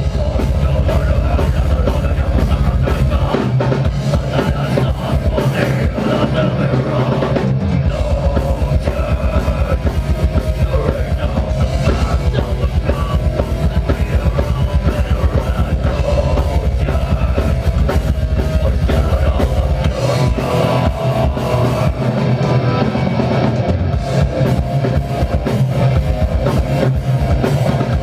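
A metal band playing live: distorted guitars over drums with a rapid, steady bass-drum pulse that drops out twice for a few seconds, about three seconds in and again near the end.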